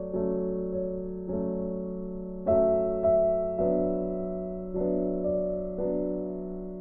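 Soft background piano music: slow notes struck about once a second over a held low note, each one fading away.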